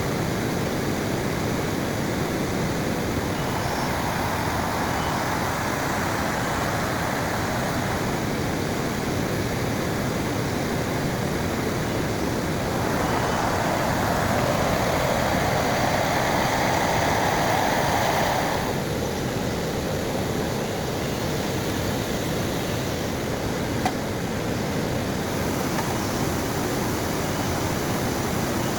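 Heavy rain falling steadily, growing louder for about five seconds around the middle before settling back.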